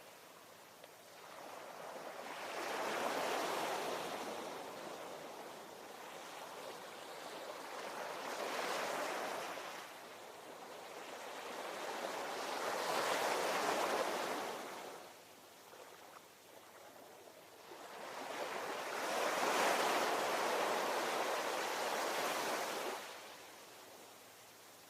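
Ocean waves washing ashore, each surge of surf swelling for a few seconds and then fading back; about four waves, with a quieter lull just past the middle.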